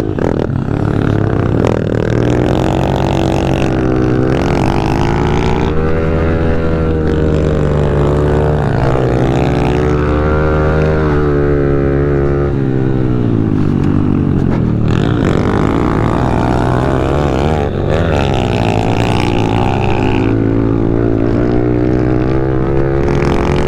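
Honda CRF110F pit bike's small four-stroke single-cylinder engine under hard riding, its pitch repeatedly rising under throttle and falling off into corners.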